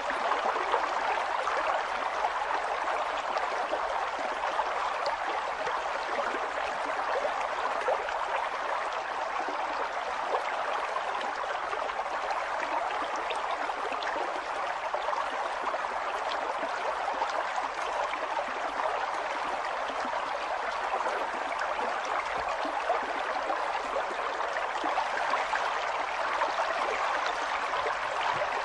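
River water flowing and babbling, a steady rush with many small splashes and trickles throughout.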